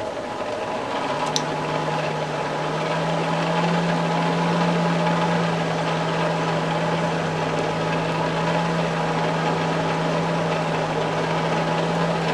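Electric air blower of a coal forge running: a steady motor hum over a rush of air, coming in about a second in and holding steady.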